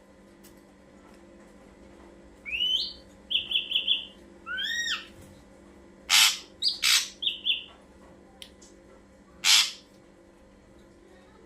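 Ashy drongo calling: a rising whistled note, a quick run of four short notes and another rising call, then several loud harsh calls.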